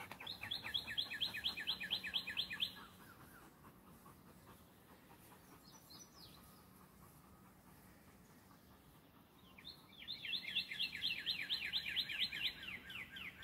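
A songbird singing two runs of quick, evenly repeated downslurred whistles, about five or six notes a second, one run at the start lasting a couple of seconds and another of about four seconds near the end.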